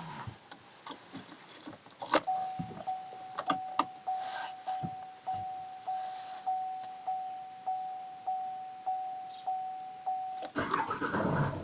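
A few clicks, then the Opel Astra J's door-open warning chime beeping steadily, about every 0.6 s, some fourteen times. Near the end the 1.7 CDTI four-cylinder turbodiesel cranks and fires on a cold start at −4 °C and settles into a steady idle.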